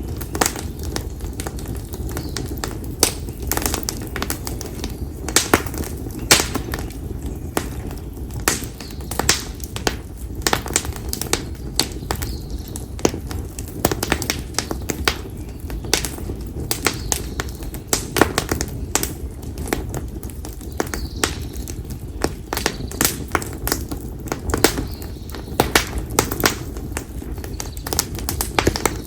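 Split konara oak firewood burning in an open bonfire, crackling with frequent irregular sharp pops over a steady low hiss of the flames.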